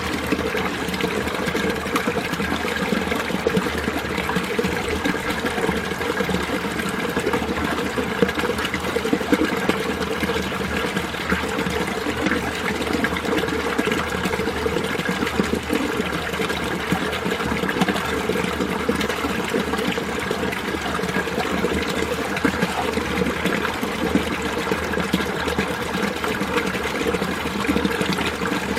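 Winter mountain stream running steadily, water trickling and babbling without a break.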